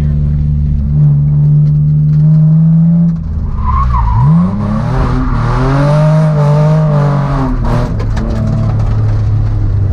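Turbocharged Toyota 1JZ straight-six in a Nissan 350Z, heard from inside the cabin: it pulls steadily in gear, eases off briefly about three seconds in, then revs up quickly and pulls hard with a loud rushing hiss for about three seconds before dropping back to an even cruise.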